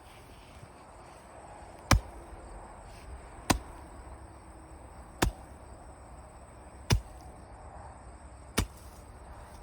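Five sharp, evenly spaced blows, about one every second and a half or so, as from a tool struck repeatedly into ground or rock.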